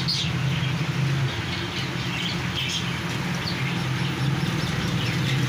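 Market ambience: a steady low hum, with small birds chirping now and then over it.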